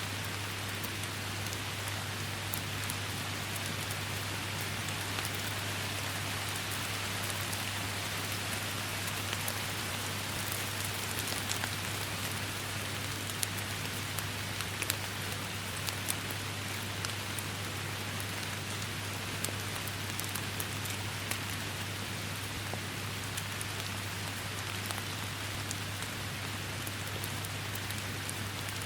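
Steady heavy rain: a dense, even hiss of rainfall with many sharp individual drop ticks, over a steady low hum.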